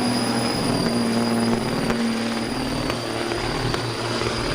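Big-rig diesel engine running hard at a steady pitch, with a steady high whine over it.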